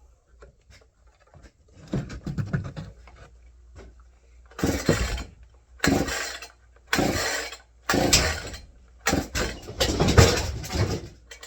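Two-stroke chainsaw being pull-started cold after priming: about seven quick pulls of the recoil starter rope, each a short burst of cranking that does not catch and run.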